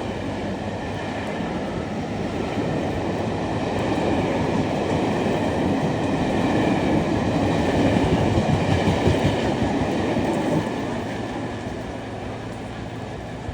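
Class 52 'Western' diesel-hydraulic locomotive D1015 Western Champion, with its twin Maybach engines, passing with its train: the engine note and wheel noise grow louder, then drop off sharply about ten seconds in and fade as it goes by.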